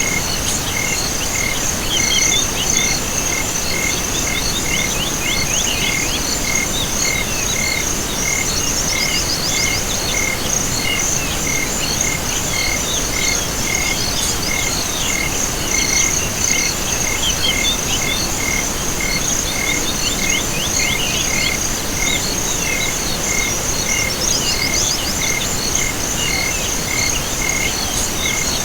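Night chorus of insects and frogs: a steady high trill, a regular chirp about twice a second, and runs of quick rattling calls that come and go every few seconds, over an even hiss.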